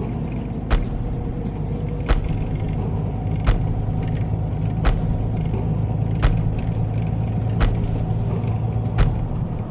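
Truck running along a road, heard from inside the cab: a steady engine and road drone, with a sharp knock about every second and a half, seven in all.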